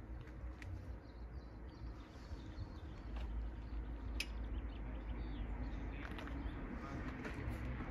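Scattered short bird chirps over a low steady rumble that grows a little louder about three seconds in.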